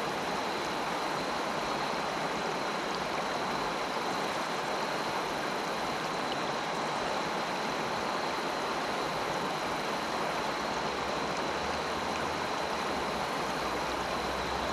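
Delaware River water rushing steadily over rocks.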